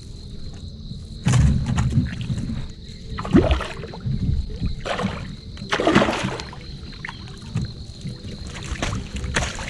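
Water sloshing and splashing in a few irregular bouts, the loudest about six seconds in.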